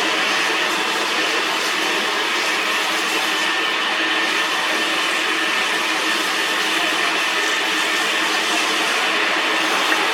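Metal lathe running steadily: an even hiss with a constant hum, no break or change.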